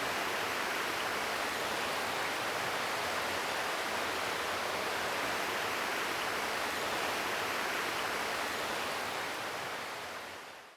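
Steady rushing of flowing water, even and unbroken, fading out near the end.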